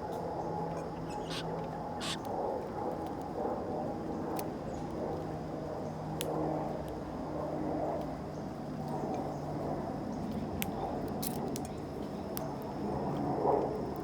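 Small backyard birds giving a handful of short, sharp chirps scattered through, over a steady low hum.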